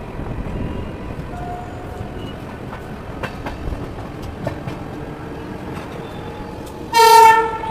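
Rajdhani Express train running at speed: a steady rumble with scattered clicks. Near the end comes one loud locomotive horn blast lasting under a second.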